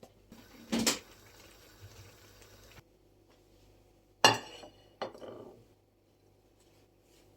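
Dishes and cutlery clattering: a loud knock about a second in over a short steady hiss, then two sharp clinks with ringing about four and five seconds in.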